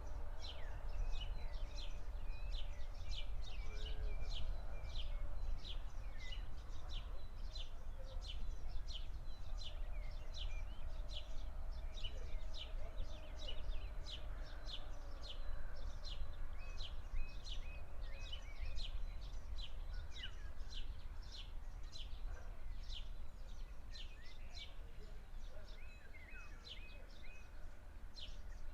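A songbird calling over and over, short high chirps about one or two a second, over a steady low rumble.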